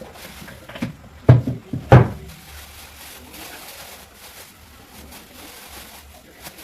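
Two sharp thumps about two-thirds of a second apart, a little over a second in, over faint handling noise of household items being put away.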